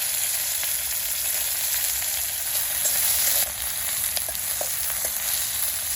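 Chopped onion and green chilli frying in hot oil in a pan: a steady, loud sizzle with a few small crackles about four to five seconds in.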